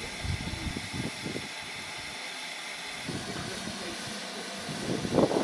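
Steady hiss of steam from a standing steam locomotive, with irregular low rumbles that grow louder near the end.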